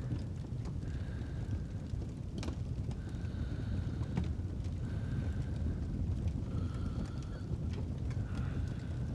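Fireplace ambience: a steady low rumble from the burning fire, with scattered sharp crackles and pops. Over it comes a soft, slow breathing sound, one breath about every two seconds.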